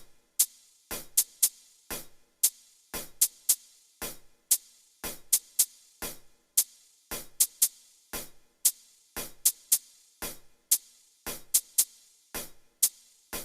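Electronic drum beat played back from the Walkband phone app: sharp hits in a sparse pattern, about three a second, repeating every two seconds.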